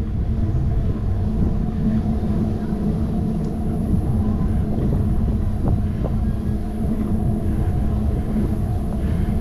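Wind rumbling steadily on a handlebar-mounted GoPro's microphone while riding a bicycle, with a few faint ticks from the bike.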